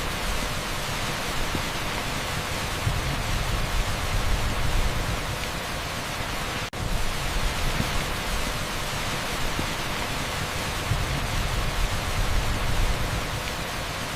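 Heavy rain pouring steadily onto an asphalt street: a dense, even hiss over a low rumble. About seven seconds in the sound drops out for an instant and comes straight back.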